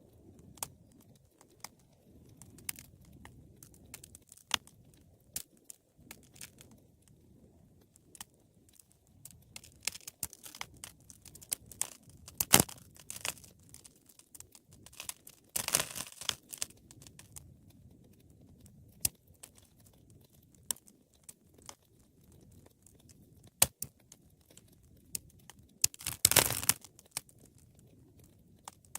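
Wood fire crackling: irregular sharp pops and snaps over a faint low rush of the burning fire, with louder bursts of crackling about halfway through and again near the end.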